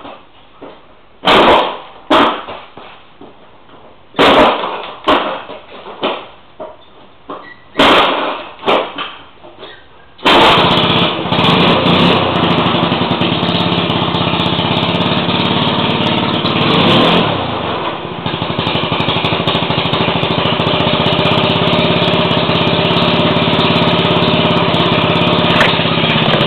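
49cc four-stroke scooter engine being kick-started: a series of hard kicks, each turning the engine over briefly without catching, made hard work by an ill-fitting kickstarter. About ten seconds in, the engine catches and keeps running steadily, its note dipping briefly partway through.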